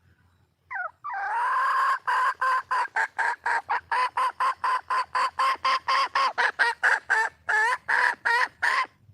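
Wild junglefowl hen cackling: a short rising call, then a longer note followed by a fast, even run of clucks at about four a second that stops just before the end. The title presents this calling as a hen calling for a male.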